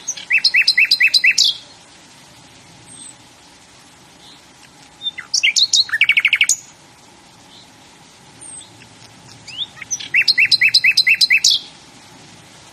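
A songbird singing three phrases about five seconds apart, each a quick run of repeated notes lasting about a second and a half, with faint short chirps between them.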